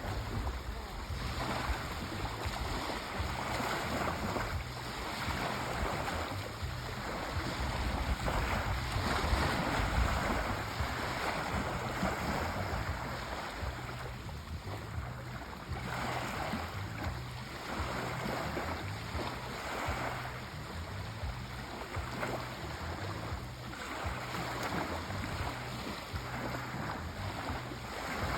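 Sea waves washing on the shore: a continuous rush of surf that swells and eases every second or two.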